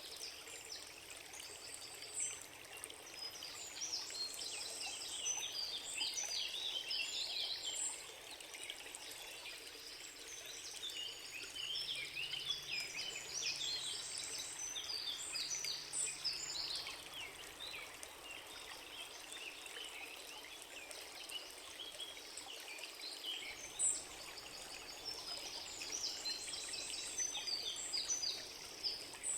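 Small birds chirping in busy spells, with quieter gaps between, over the steady trickle of running stream water.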